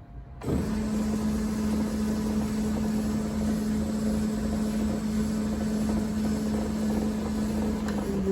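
Clausing 4901 metal lathe's motor and drive train switched on about half a second in and running steadily with an even hum, on its first powertrain test after reassembly. The hum dips slightly in pitch near the end.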